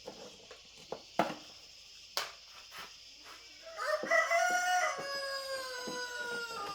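A few sharp knocks, then a rooster crowing: one long call starting a little past halfway in, its pitch dropping slightly toward the end.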